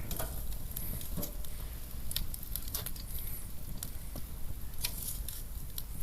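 Wood fire of partly green wood crackling, with irregular sharp snaps and pops over a low, steady hiss.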